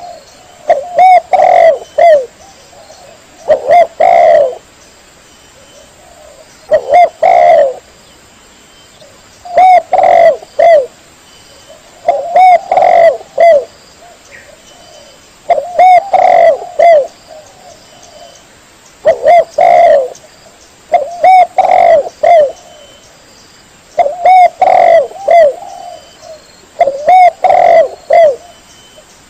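Spotted dove (tekukur) cooing: short phrases of several coos, each dipping in pitch, repeated about every three seconds.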